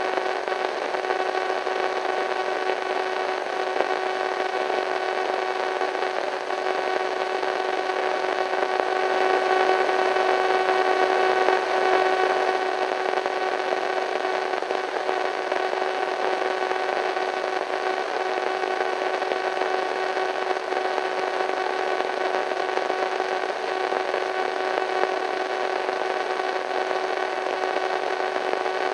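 Radio static: a steady hiss with a steady humming tone running through it, swelling slightly about ten seconds in.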